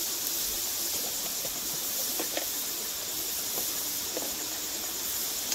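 Onion and ginger-garlic paste sizzling in hot oil in a steel wok, a steady high hiss.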